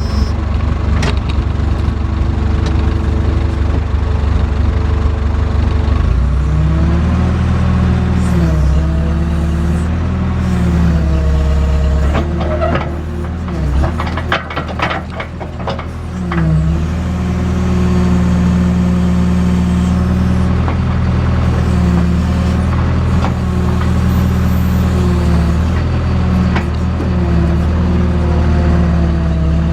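JCB backhoe's diesel engine running under hydraulic load while digging, its pitch rising and falling as the arm and bucket work. About halfway through it eases off for a few seconds with some knocks, then pulls steadily again.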